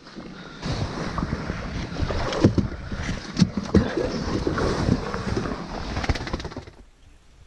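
Water splashing and sloshing with irregular knocks, starting about half a second in and stopping shortly before the end.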